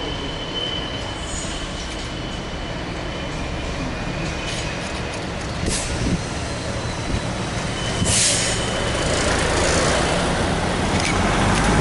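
Diesel freight train running past: a steady low engine note and rolling rumble that grows louder toward the end, with a few clunks and a short hiss about eight seconds in.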